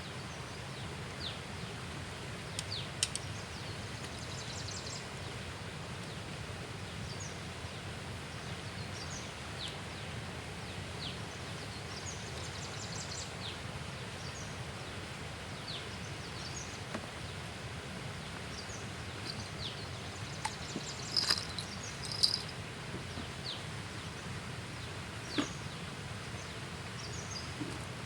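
Birds calling around a riverbank: many short, quick falling chirps scattered through, with a louder burst of calls about two-thirds of the way in, over a steady low background hum.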